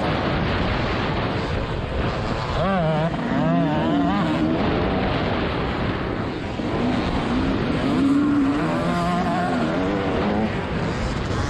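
TM 300 ES 300cc single-cylinder two-stroke motocross bike engine being revved hard on and off the throttle, its pitch rising and falling repeatedly, with a fast wavering run of revs a few seconds in, over a steady rushing noise.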